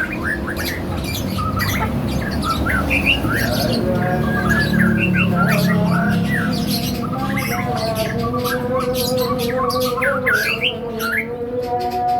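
Songbirds calling in quick, varied chirps and harsh squawks, many short rising and falling notes one after another, over a steady hum.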